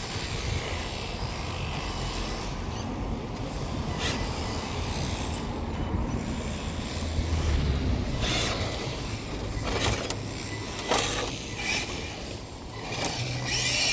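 1/10-scale RC car driving about, its motor revving and tyres spinning as it does burnouts and donuts.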